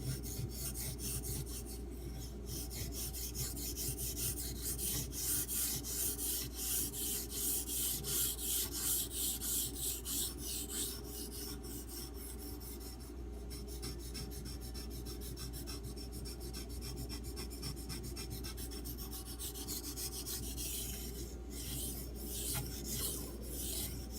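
A D2 steel knife blade being stroked back and forth on a soaked 3000-grit Arkansas water stone: a rhythmic scraping rasp of about two strokes a second. The stone's coarse surface texture is being worn down as it cuts.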